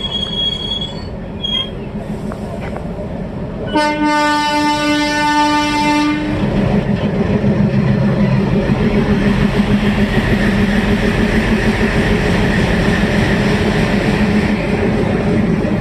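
Passenger train running on the rails, with a brief high wheel squeal near the start. About four seconds in, a train horn blows for about two and a half seconds, and the running noise then grows louder.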